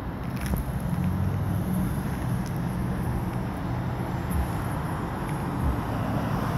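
Steady low hum of a car engine running, over outdoor background noise.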